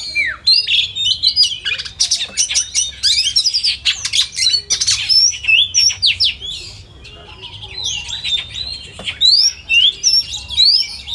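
Oriental magpie-robins (kacer) singing: a dense, rapid stream of varied whistles, rising and falling sweeps and sharp chattering notes, easing off briefly just after the middle before picking up again.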